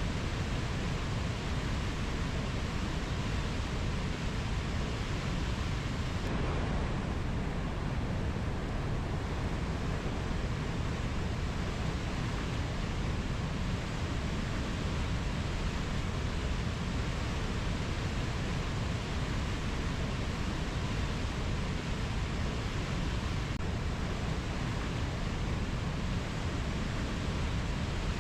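Steady, even rushing noise of a rainforest nature ambience, heaviest in the low end, with no bird or insect calls standing out.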